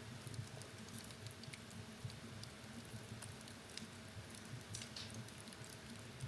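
Wood fire burning in a fireplace: frequent small crackles and pops over a low steady rumble of the flames.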